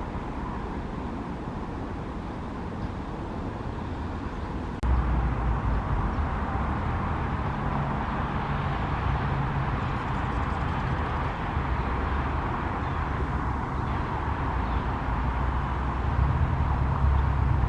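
Steady outdoor background noise with a low rumble, which steps up suddenly and stays louder from about five seconds in.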